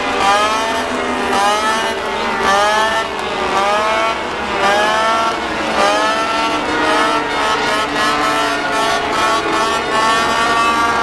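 High-revving motorcycle engines: several overlapping engine notes repeatedly climb in pitch and drop back, about once a second. Near the end they settle into one steady held note.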